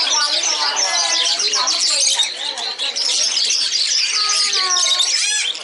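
Many caged songbirds chirping and twittering at once, a dense chorus of short high calls, with a quick trill of repeated notes near the end.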